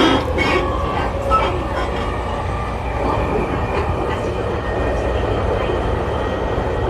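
Tokyu 5000 series electric train running: a steady rumble of wheels on rail with faint motor tones, and a few sharp clicks in the first second or so.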